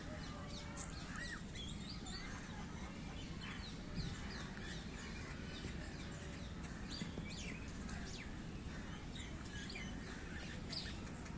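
Small birds chirping, many short quick calls overlapping one another, over a steady low background hum.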